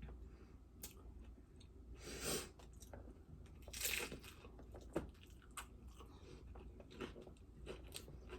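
Close-up eating of a crisp fried tostada shell: two crunchy bites about two and four seconds in, with chewing and small crisp clicks in between.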